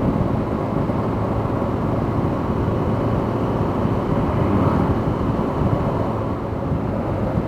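Motorcycle engine running steadily at cruising speed, with the rush of wind and road noise while riding.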